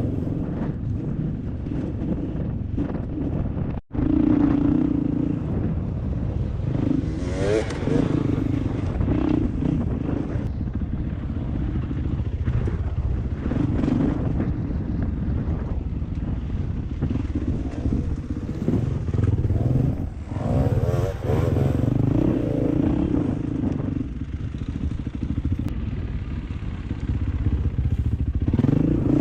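Yamaha WR450F dirt bike's single-cylinder four-stroke engine running as it is ridden, its pitch rising again and again as the throttle opens. The sound drops out sharply for an instant just before four seconds in.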